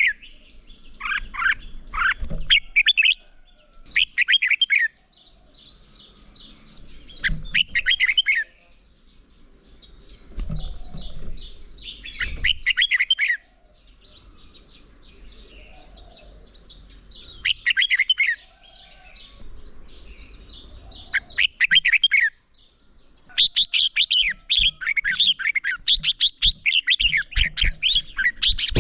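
Red-whiskered bulbuls singing their fighting song: short, rapid phrases of bright chirping notes with brief pauses between them, becoming a dense, unbroken run of song near the end.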